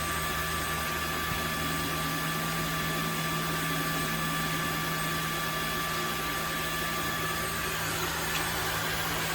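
Tineco Floor ONE S5 cordless wet-dry vacuum running its self-cleaning cycle in the dock: a steady motor whine over a low hum. One high tone drops out near the end, as the cycle finishes.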